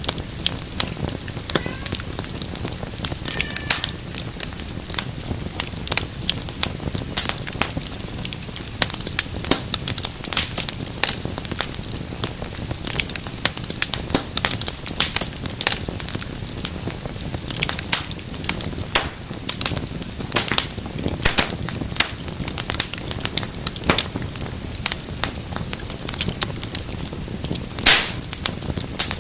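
Wood fire crackling steadily: many sharp pops and snaps over a low, even rumble of flames, with one louder pop near the end.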